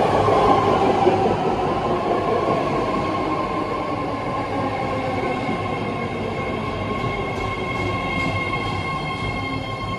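BART Fleet of the Future train running in alongside the platform and slowing to a stop: the rumble of wheels on rail gradually fades, leaving a steady high whine.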